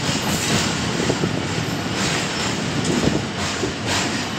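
Millat Express passenger train running along the track, heard from an open coach door: a steady rumble of wheels on the rails with a few sharp clicks.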